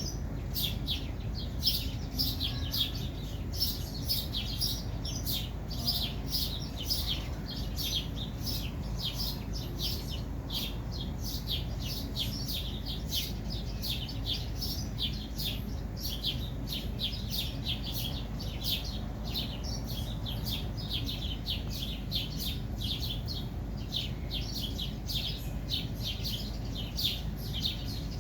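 Bird chirping rapidly and without pause, short high notes several a second, over a low steady rumble.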